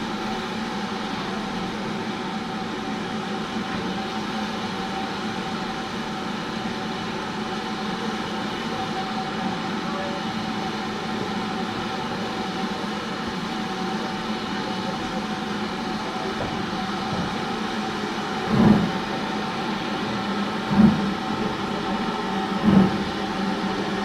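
Steam locomotive standing with a steady hiss and hum, then three short loud beats about two seconds apart near the end.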